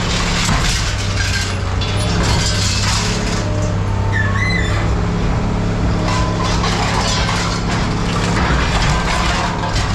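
Heavy scrapyard machine's diesel engine running steadily, with scrap metal clanking, scraping and crunching as it is handled, and a brief squeal about four seconds in.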